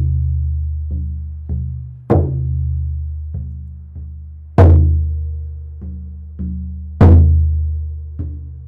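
A deep drum beaten in a slow repeating pattern: one strong, ringing beat followed by two lighter ones, the cycle coming round about every two and a half seconds.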